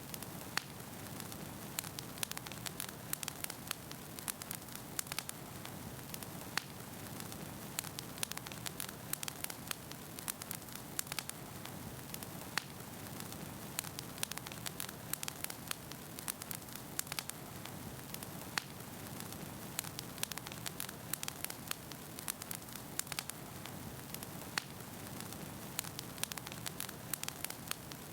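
Wood fire burning, a steady low hiss with frequent sharp, irregular crackles and pops from the burning logs.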